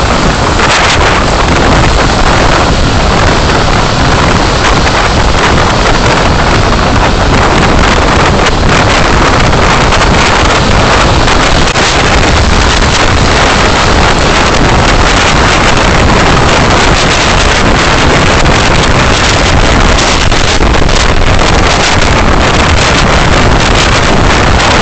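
Steady, loud rushing road and wind noise of a car driving, picked up by a dashcam microphone.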